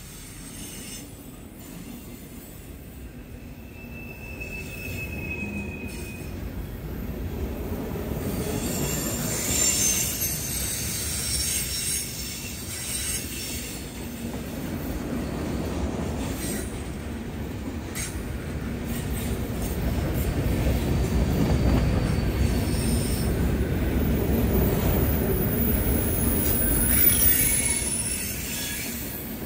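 Freight train cars rolling past, a steady rumble of wheels on rail that grows louder, with high wheel squeal twice and a few sharp clanks.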